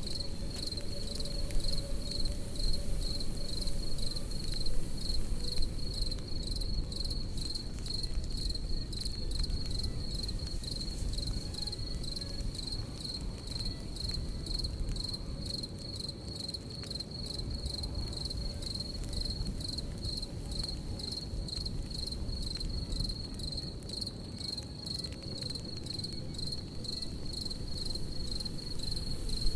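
Crickets chirping in a steady, fast-pulsing high trill over a crackling campfire, whose sharp pops come thickest in the first half and again near the end, above a low rumble of the fire.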